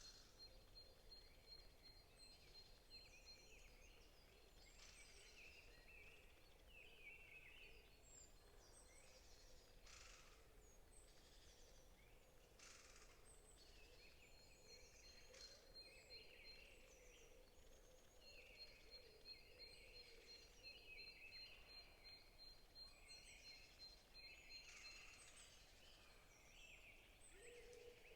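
Several forest songbirds chirping and singing faintly, with one bird's long rapid run of high, even notes that stops and starts again.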